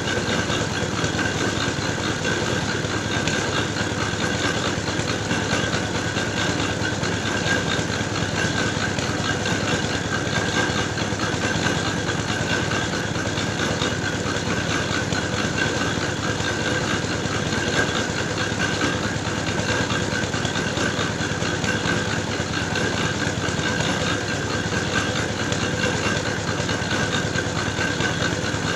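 Motor-driven clay grinding mill running steadily as it grinds soil into brick dough, an unbroken engine drone with a steady whine.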